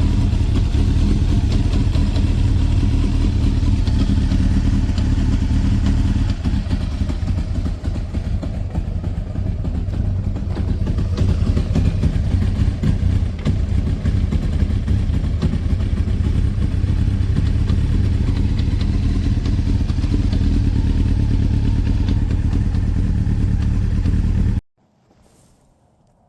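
1996 Honda CBR900RR's inline-four engine running steadily, then its sound cuts off suddenly near the end.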